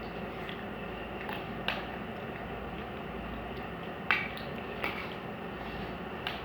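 People eating rice from plates: a handful of sharp, short clicks and taps, the loudest about four seconds in, over a steady background hum.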